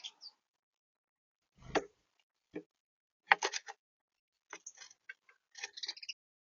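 A small bird pecking and tapping on a bird feeder: irregular sharp taps, some coming in quick runs of three or four.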